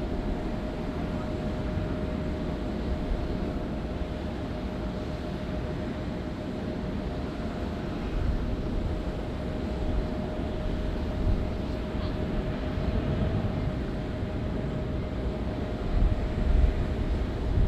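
Jet airliner engines running steadily, a constant whine over a low rumble, with no rise in power, as from a plane taxiing or holding before takeoff.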